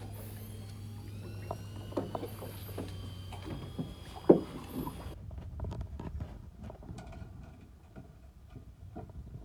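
Knocks and rattles of gear being handled aboard a fishing boat, over a steady low hum that stops about three and a half seconds in. The loudest is a sharp knock about four seconds in, followed by scattered quieter clicks.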